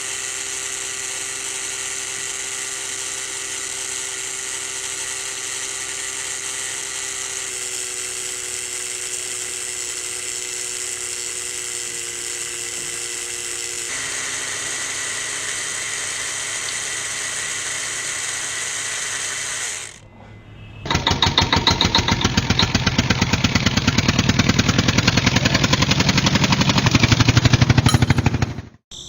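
A small electric motor running with a steady whine, its pitch stepping down slightly twice. After a brief break it gives way to a louder, fast rattling buzz that cuts off suddenly near the end.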